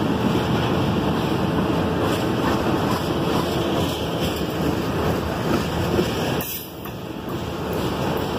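Freight cars (tank cars, then covered hoppers) rolling past close by: a steady noise of steel wheels on rail, dipping briefly about six and a half seconds in.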